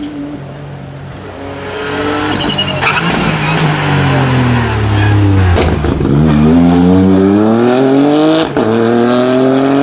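Rally car engine slowing hard, its pitch falling, with several sharp cracks as it comes down. It then accelerates away with steadily rising revs, shifting up once near the end and climbing again.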